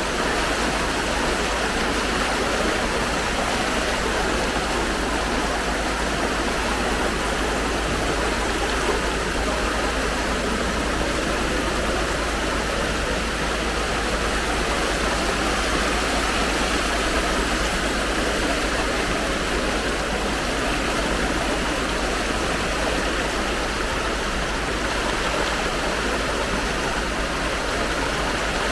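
Strong floodwater rushing along a street, a steady unbroken rush of water.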